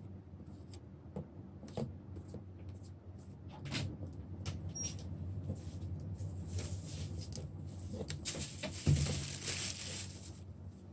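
Small clicks and scraping from hand tools working on a phone's screen glass, over a steady low hum. From about six seconds in a louder hiss builds, with one sharp knock near nine seconds.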